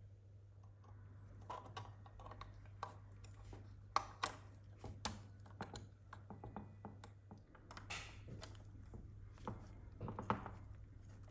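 Irregular light clicks and taps of small hard parts being handled and fitted by hand, over a steady low hum.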